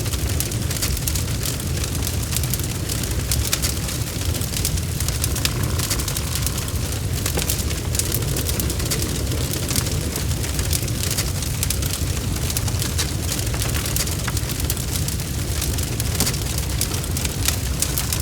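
Wood fire in a fireplace crackling, with frequent sharp snaps over a steady low rumble.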